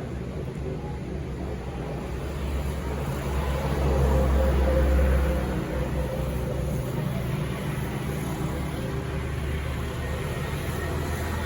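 Steady low traffic rumble, with a vehicle passing that swells loudest about four to five seconds in and then fades back.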